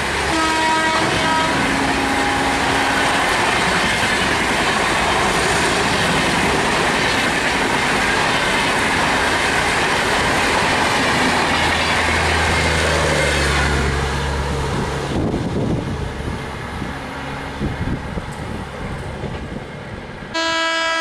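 An Indian Railways express train passing at speed: a horn blast at the start, then loud rushing wheel-and-rail noise for about fourteen seconds that drops away to a quieter rumbling clatter. Another horn blast sounds at the very end.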